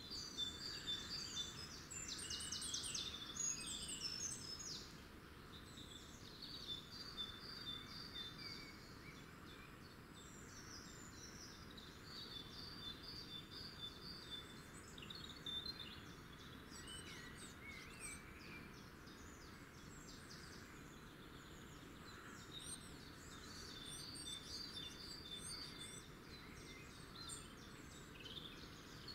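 Small birds singing, with repeated runs of quick high chirping notes over a steady outdoor background hiss; the chirping is busiest and loudest in the first few seconds.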